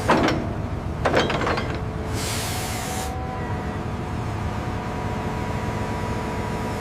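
Heavy machinery running with a steady rumble, two sharp knocks near the start, and a hiss of about a second, like air being let out.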